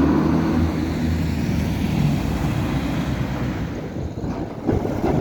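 Antwerp tram running with a steady motor hum that fades about four seconds in, followed by knocking and rattling noise near the end.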